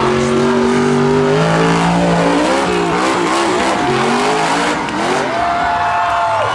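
Monster truck's supercharged V8 engine revving hard, its pitch rising and falling again and again as the throttle is worked, then held high for about a second near the end.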